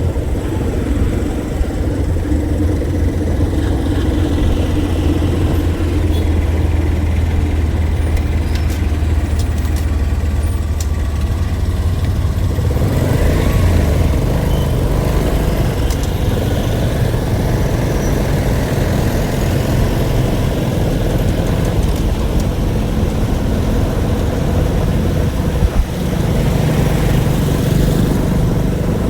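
Motor vehicle engine running steadily with a low drone, its sound shifting about halfway through.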